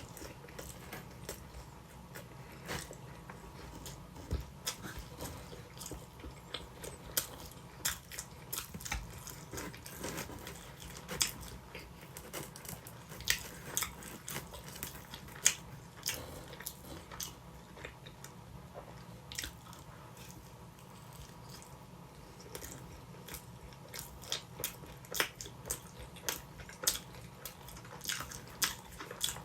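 A person chewing and biting into sweet potato pizza, with irregular crunches and sharp mouth clicks. There is a quieter stretch a little past the middle.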